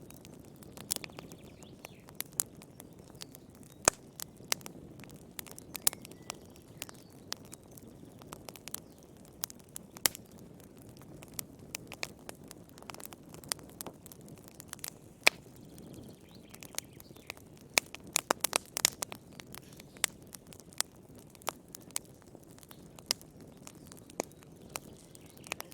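Wood fire crackling in a fireplace: irregular sharp pops and snaps over a soft low rush of flame, with a quick run of pops about three-quarters of the way through.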